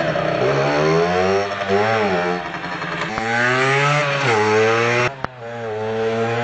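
Small two-stroke dirt-bike engine revving up and down over and over, its pitch rising and falling, with a brief drop and a couple of clicks about five seconds in.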